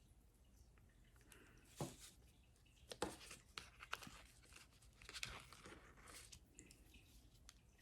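Faint crinkling and a few soft clicks of contact paper and cardboard being handled while string is threaded through punched holes.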